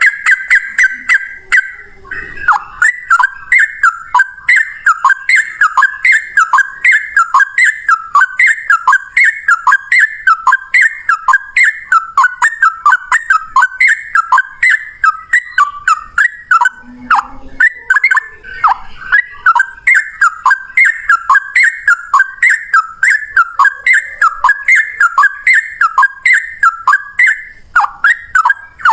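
Yellow-vented bulbul (trucukan) singing a long, unbroken run of its song. It opens with a held whistled note, then about two quick looping phrases a second without a pause.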